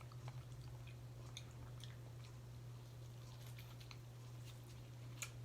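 Faint chewing of seafood close to the microphone: soft, scattered wet mouth clicks, over a steady low hum.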